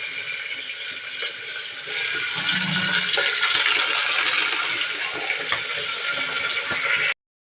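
Pork pieces sizzling in hot rendered pork fat with frying onions, a steady hiss that grows louder about two seconds in and cuts out briefly near the end.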